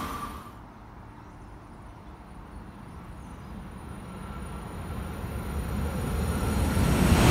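Noise from a passing Class 395 Javelin electric train fading away, then noise from another train approaching, growing steadily louder toward the end. A faint high whine joins in about halfway through.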